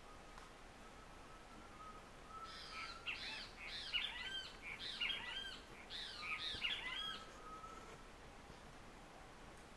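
A bird calling: a quick run of arched chirping notes for about five seconds, over a faint steady high tone.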